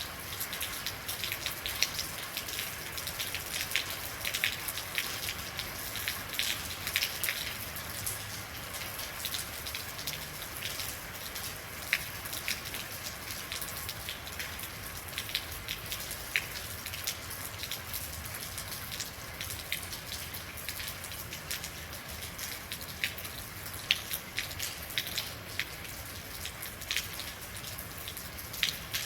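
Steady rainfall, with many individual drops ticking and pattering on a hard surface and a few louder single drops standing out.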